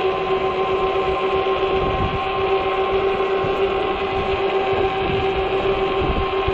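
The hub motor of a 48-volt fat-tire e-bike whines steadily at cruising speed, over the rush of the tires and low wind buffeting on the microphone.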